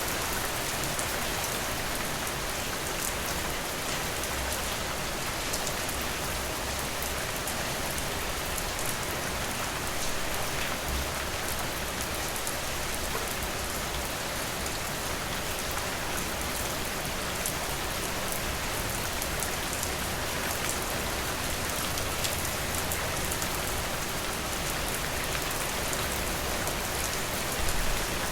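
Steady rainfall: an even hiss with scattered individual raindrop ticks. A brief low thump near the end stands out as the loudest moment.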